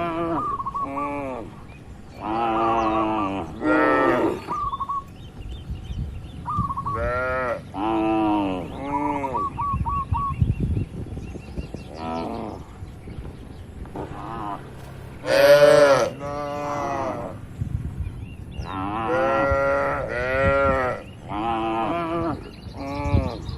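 Several cattle mooing again and again, calls of half a second to a second following close on each other and sometimes overlapping, the loudest about two-thirds of the way through.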